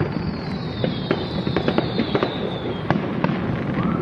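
Fireworks display going off at close range: a rapid, irregular run of sharp crackling bangs over a steady low rumble, with a high whistle gliding slowly down in pitch through most of it.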